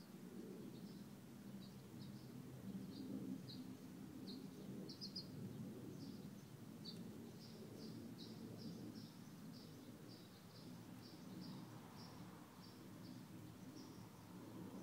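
Faint bird chirping: short high chirps repeated about two or three times a second, over a low background rumble.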